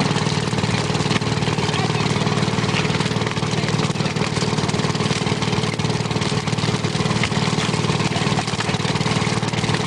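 Fishing boat's engine running steadily at a constant speed, with a dense, even beat.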